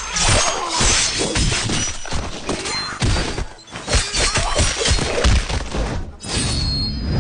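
A rapid run of crashes and impacts with breaking, shattering sounds, easing briefly about three and a half seconds in. About six seconds in, a steady low hum comes in under the crashes.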